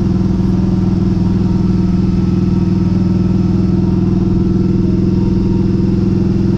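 Harley-Davidson V-Rod's liquid-cooled 60-degree V-twin engine running steadily at an even pitch, heard close up from the rider's seat.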